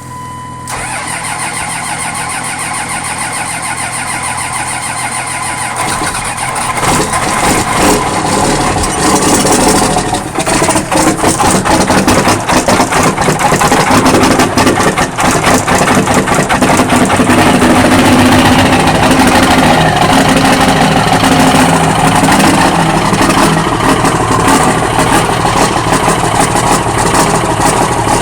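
A 1999 Dodge's 5.9-litre 24-valve Cummins diesel starting cold in freezing air (27°F). It cranks for about five seconds, catches about six seconds in, and grows louder around ten seconds in before running on at a loud, steady idle.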